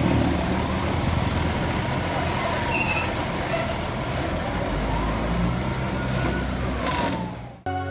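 Heavy trucks' engines running steadily in street traffic, with a broad noisy hum.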